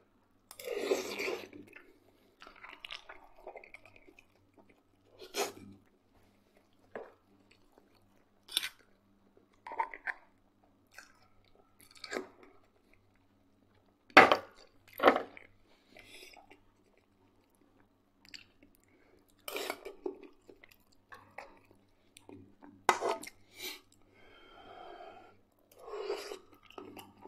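Close-up chewing of crisp-fried potatoes with some crunch, broken by scattered sharp clinks of a metal fork against the frying pan, the loudest about halfway through.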